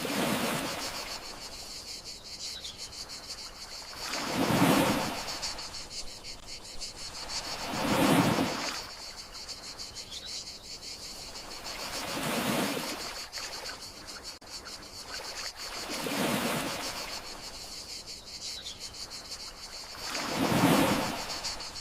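Gentle sea waves washing ashore in slow swells about every four seconds, over a steady high chirping of crickets.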